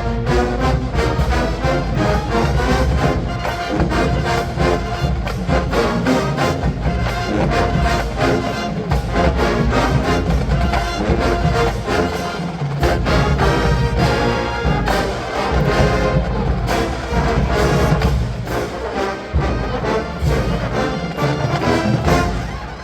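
College marching band playing a funk tune, brass over a steady beat from the drumline.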